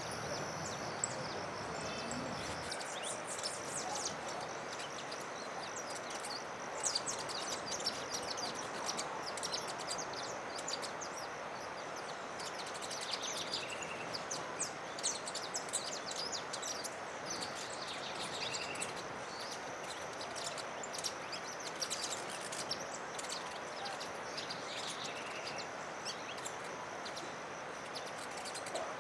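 Small forest songbirds giving many short, high chirps and a few brief whistled notes every few seconds, over a steady background hiss.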